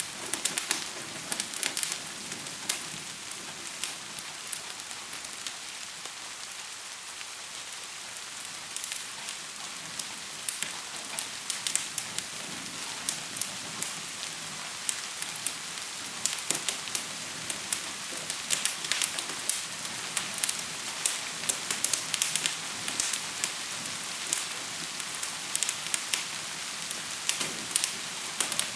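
Steady hiss of gentle rain mixed with a wood fire crackling, its sharp pops and snaps coming in irregular runs. The pops are sparse for the first few seconds and come thicker later.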